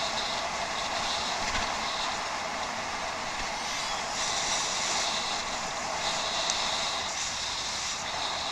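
Steady riding noise of a bicycle on rough off-road ground, picked up by a head-mounted camera: a continuous hiss that swells and eases now and then.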